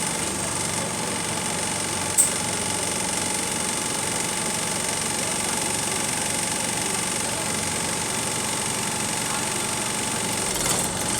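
Bus engine idling steadily with a rattly vibration; a single sharp click about two seconds in.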